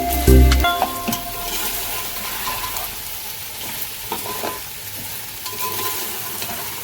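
Food sizzling in a pan as it is stirred. Background music cuts off within the first second.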